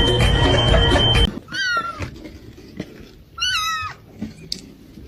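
A loud jumbled noise in the first second cuts off. Then a cat meows twice, about two seconds apart.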